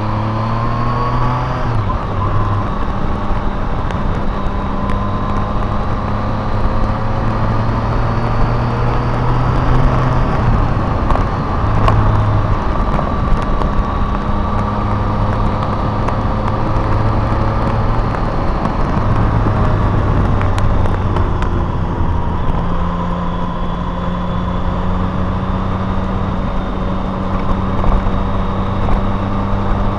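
A car driving along a road: the engine's note climbs over the first couple of seconds as it accelerates, then holds fairly steady under continuous road and tyre noise, with a small change in pitch about three-quarters of the way through.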